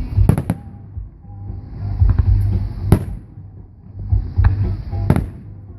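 Fireworks shells bursting with several sharp bangs, a double one near the start and single ones about three and five seconds in, over music that rises and falls on a steady cycle.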